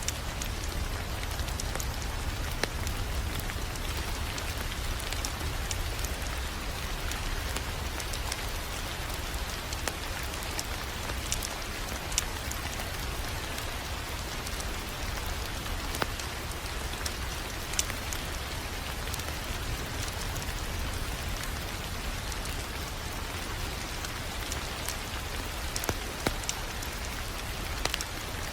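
Wood fire crackling in a fireplace: a steady hiss with scattered sharp pops every second or two, over a low rumble.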